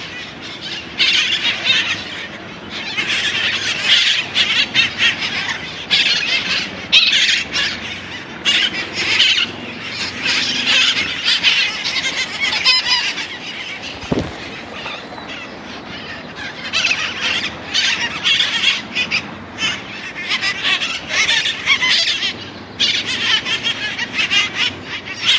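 Flock of feral red-masked parakeets (cherry-headed conures) screeching and squawking, many harsh calls overlapping in bursts with short lulls.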